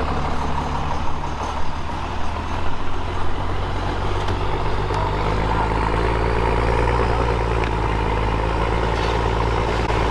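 Truck engine running, settling into a steadier, fuller drone about four seconds in.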